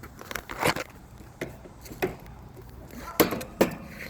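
A handful of sharp knocks and clicks, about five, irregularly spaced over a low steady background, with the two loudest coming close together near the end.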